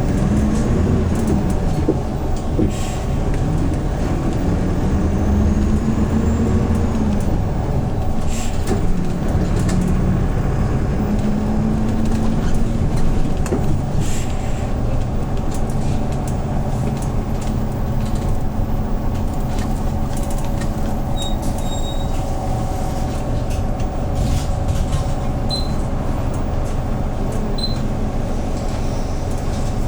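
Engine of a 2013 Hyundai New Super Aero City CNG city bus, heard from inside the bus. Its note rises and drops a few times in the first dozen seconds, then runs steadily.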